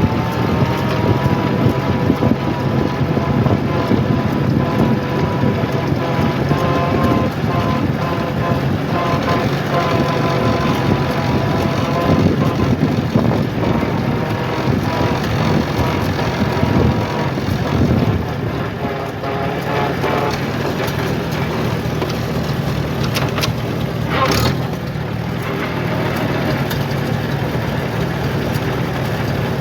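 Tractor engine running steadily under way, with a brief louder noisy burst about twenty-four seconds in.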